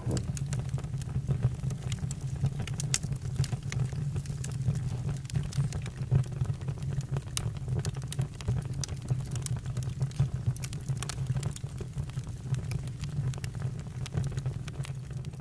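Campfire crackling: scattered sharp pops and snaps over a steady low rush of burning.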